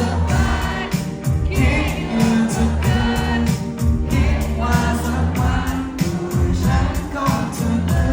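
Thai indie-pop band playing a song live with a sung vocal line over drums and bass.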